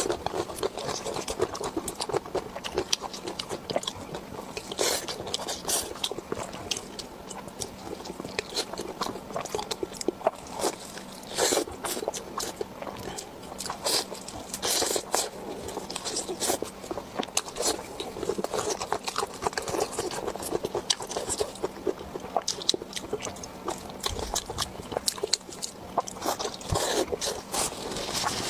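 Close-miked eating: crunchy bites and chewing, a dense run of crackling crunches with a few louder bites now and then.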